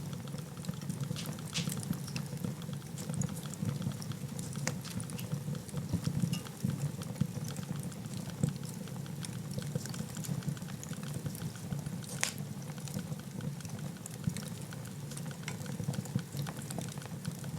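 Wood fire crackling in a fireplace: a steady low rumble of the flames under frequent small ticks, with a few sharper pops, the loudest about two thirds of the way through.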